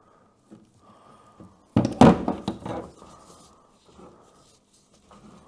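Heavy breathing, a soft hissing breath about every second. About two seconds in comes a loud, brief handling noise.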